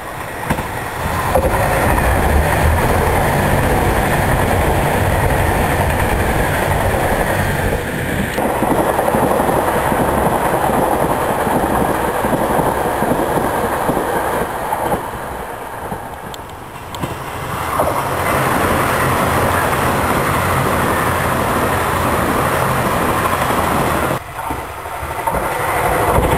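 Express trains passing through a station at speed: the rumble and clatter of wheels on the rails, dropping away and building again twice.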